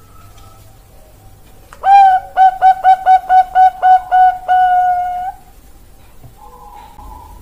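Zebra dove (Thai-bred perkutut bangkok) cooing one song phrase about two seconds in: a longer opening note, a quick run of about eight short clipped notes, and a long held closing note.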